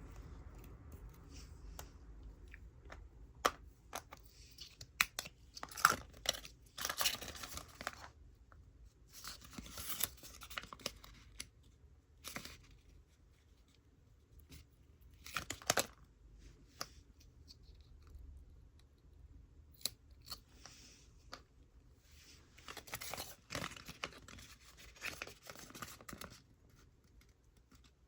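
Close-up handling of small plastic and die-cast toys: scattered sharp clicks and taps, with several short bursts of rustling, scraping noise in between and quiet gaps.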